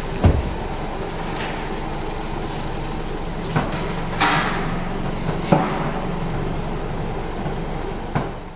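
Toyota 1AZ-FSE four-cylinder engine running at a steady idle, with several short sharp clunks over it.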